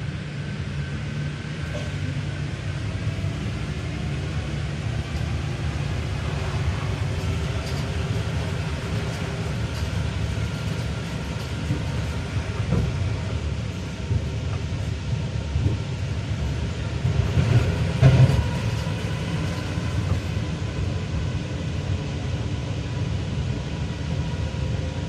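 Rubber-tyred Paris Métro line 1 train running between stations, heard from inside the car: a steady low rumble with faint level tones above it. About seventeen seconds in, a brief louder clatter rises over the rumble.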